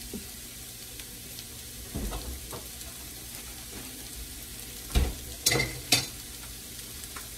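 Onion, green bell pepper and ground beef sizzling steadily in an oiled frying pan, with a few sharp clicks and knocks about two-thirds of the way through.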